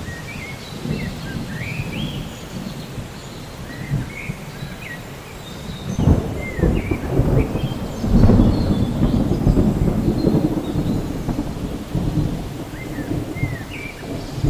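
Rain falling with thunder rumbling low, swelling loudest about six seconds in and again from about eight seconds on. Short high chirps sound over the top throughout.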